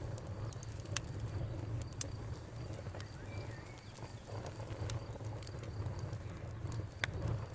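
Campfire of burning wood crackling, with sharp snaps and pops scattered over a steady low rumble of the flames. A short bird chirp comes about three seconds in.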